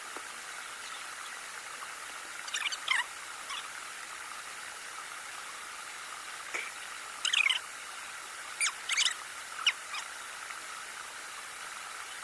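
Wild birds calling in short, quick chirps, in brief clusters about two and a half seconds in, then several more in the second half, over a steady outdoor hiss.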